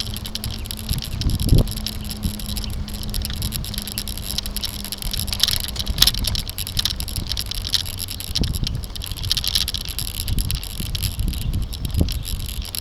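A camera mounted on a moving bicycle picks up a steady rumble of road vibration and wind. Several sharp knocks come through as the bike goes over bumps.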